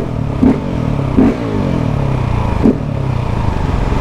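KTM 690 SMC R's single-cylinder engine running under way, its note falling as it comes off the throttle and then holding steady. Four short, sharp bangs come in the first three seconds.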